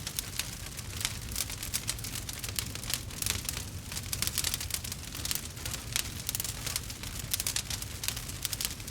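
Wood fire burning with a dense, irregular crackle and many small pops over a low steady rumble.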